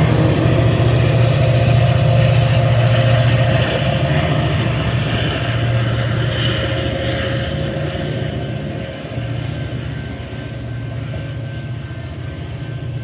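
Diesel locomotive running with a steady low hum and a few steady higher tones, fading as the train moves away.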